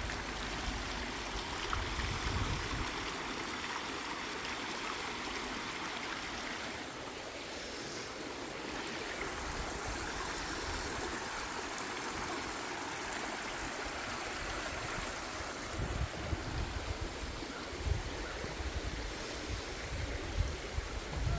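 A babbling brook: water running and splashing over rocks in a steady rush. Low rumbles on the microphone come near the start and again in the last few seconds.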